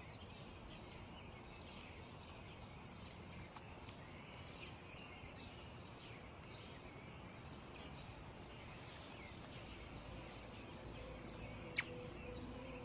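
Faint outdoor ambience: small birds chirping again and again, short scattered calls over a steady background hiss. A single sharp click near the end.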